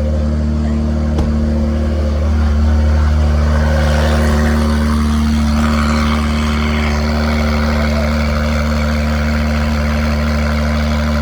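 2019 Acura NSX's twin-turbo V6, fitted with a Quicksilver exhaust and race downpipes, idling steadily shortly after a cold start.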